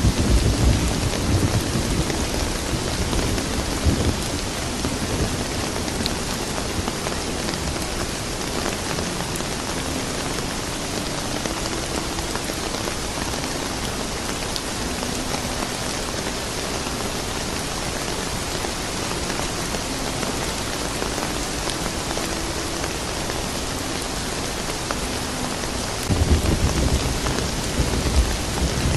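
Steady rain falling on a surface, with low rolls of thunder rumbling at the start and again near the end.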